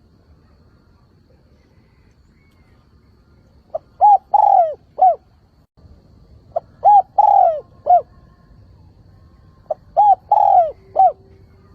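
Spotted dove cooing its calling song three times, about three seconds apart. Each phrase opens with a short pickup note, then several curved coos, one longer and drawn out. This is the decoy-bird call used to draw and rouse wild male doves.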